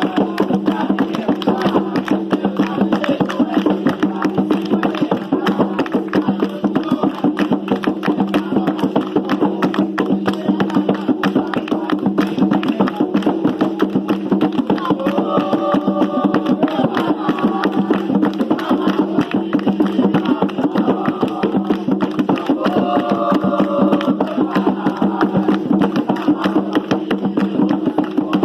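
Atabaque hand drums beating a fast, steady rhythm for Umbanda ritual music, with sharp wooden-sounding strikes mixed in. Twice a short pitched sound rises above the drumming.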